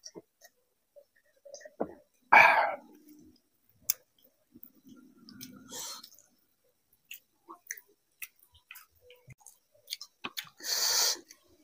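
Close-up mouth sounds of a man eating fried rice and chicken curry by hand: chewing with many small wet clicks and smacks. There are louder bursts about two seconds in and again near the end.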